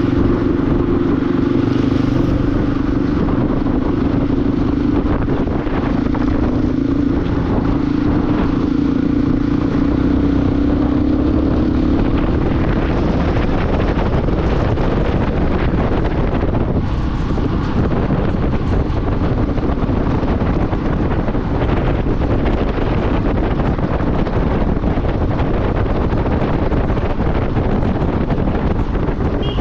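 Motorcycle running at a steady speed, under heavy wind noise on the microphone. A steady engine note is heard for the first dozen seconds, then sinks into the wind noise.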